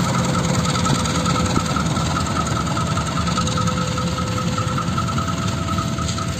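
Diesel locomotive engine running with a steady low rumble as a passenger train rolls past, over a level-crossing warning bell ringing in a fast, even repeat.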